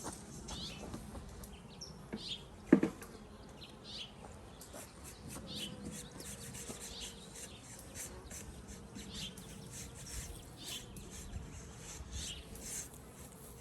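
Honeybees buzzing around an open hive. A bird chirps repeatedly, and one sharp knock comes about three seconds in.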